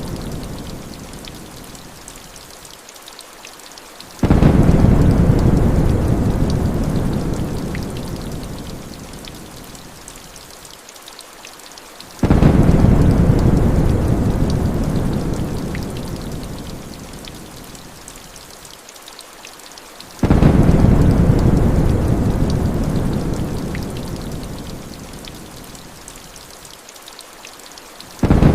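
Heavy rain falling steadily. Low rolls of thunder break in suddenly about every eight seconds and die away slowly.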